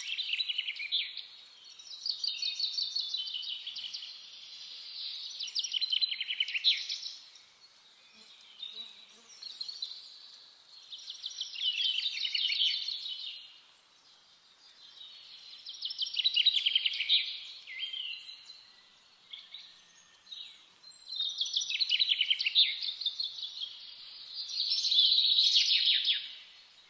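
Birds calling in repeated bouts of rapid, high-pitched chattering, each a second or two long, with quieter gaps between.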